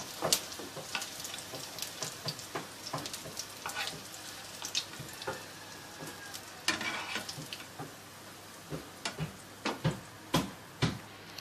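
Chicken burger patties frying in shallow oil in a nonstick pan: a steady sizzle with frequent crackling pops. A few louder clicks and knocks near the end as the patties are lifted out with a spatula.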